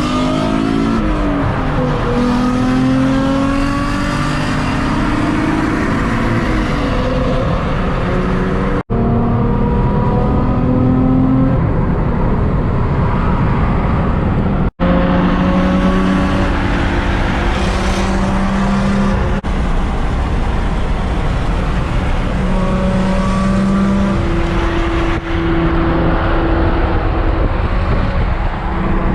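Car engine accelerating through the gears, its pitch climbing and dropping back at each shift, over steady road noise; the sound cuts out for an instant twice.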